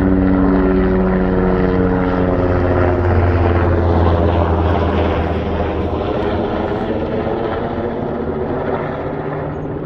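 Helicopter passing by, its rotor and engine tones falling in pitch over the first few seconds as it goes past, then a steady rumble that slowly fades.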